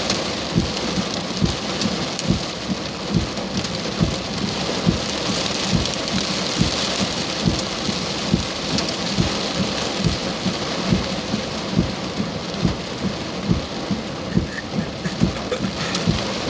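Heavy rain pouring steadily, with frequent irregular thuds of large drops hitting a hard surface close to the microphone.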